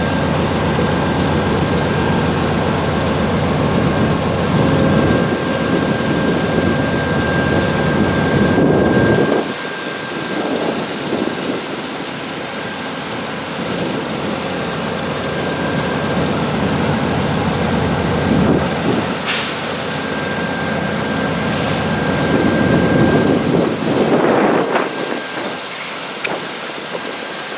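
VIA Rail P42DC diesel locomotive idling during a station stop, with a thin steady whine over the engine. Wind buffets the microphone with a heavy low rumble that drops away about nine seconds in.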